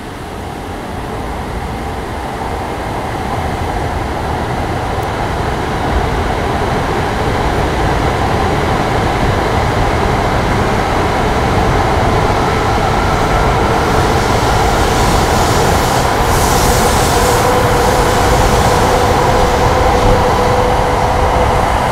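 JR East E5 series Shinkansen train running along the platform track: a rumble of wheels and running gear that grows louder over the first several seconds as the train comes in. A steady whine joins it in the second half.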